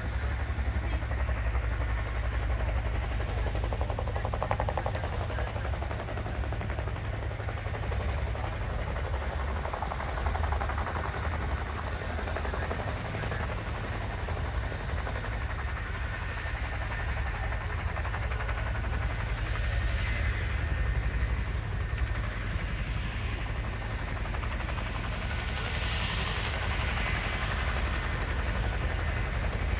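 Boeing CH-47 Chinook tandem-rotor helicopter running on the ground. A deep, steady rotor and engine noise carries a thin high turbine whine, which drops slightly in pitch about halfway through.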